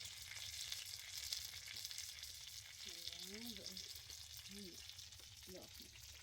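Food frying in a pan, a steady sizzle with light crackling.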